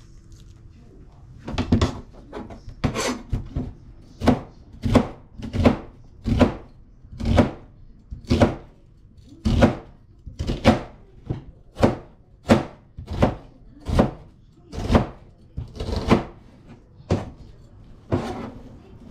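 A kitchen knife chopping vegetables on a cutting board, in a steady series of about twenty sharp strokes at roughly one to two a second.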